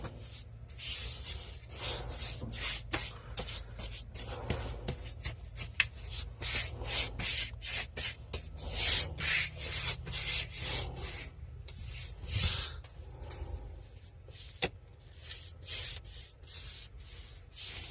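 Paintbrush strokes on wooden window trim: a repeated brushing swish about two to three times a second, in an uneven rhythm.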